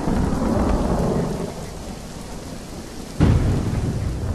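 Heavy rain with a deep rumble. The sound eases off about a second and a half in, then comes back suddenly near the end.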